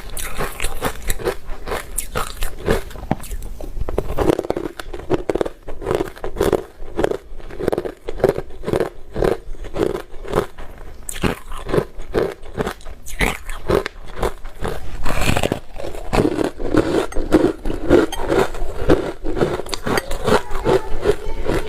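Ice being bitten and chewed up close, a steady run of crunches several times a second, with a few louder bites along the way.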